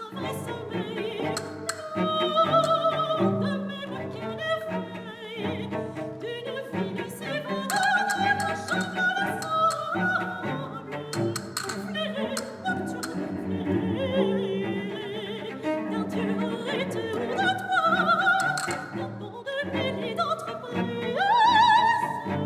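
An operatic soprano sings long notes with vibrato over a classical orchestra of bowed strings.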